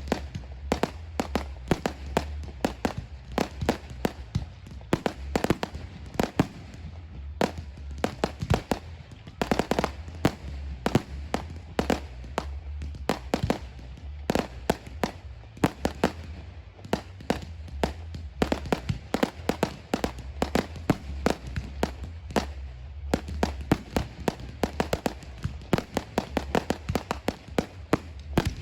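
Fireworks show: a dense, unbroken string of aerial shell bangs and crackles, several a second, over a steady low rumble.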